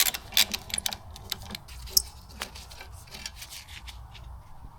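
Hand tool on a small bolt at a car's control arm: a run of sharp metallic clicks and taps in the first two seconds, then softer rubbing and scraping of metal as the bolt is worked loose.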